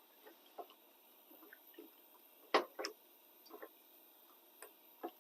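Faint squishing with scattered light taps of a utensil as potatoes are worked in a pot, with two sharper knocks about two and a half seconds in.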